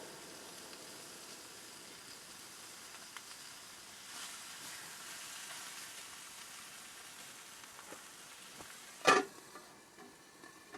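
Steady sizzling hiss with a few light clicks, and one sharp, loud clank about nine seconds in.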